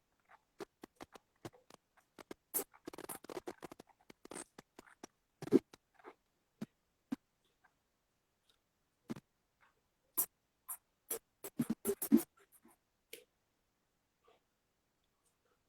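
Scattered short taps, clicks and scratchy rustles at irregular intervals, with a louder knock about five seconds in and a burst of sharp knocks around ten to twelve seconds in.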